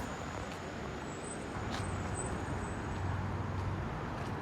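Car driving along a road: steady engine and tyre noise with a low hum that grows a little louder about a second and a half in.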